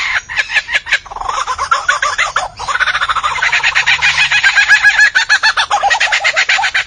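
A bird calling loudly in a fast run of short, repeated pitched notes that goes on almost without a break.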